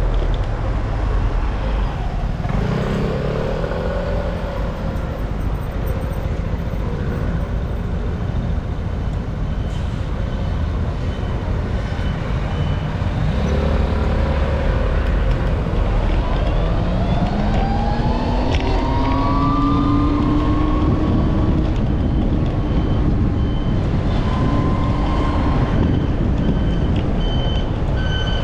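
Wind buffeting the microphone over road traffic while riding, with motor vehicle engines rising in pitch as they accelerate. A repeating high-pitched beep sounds through the second half.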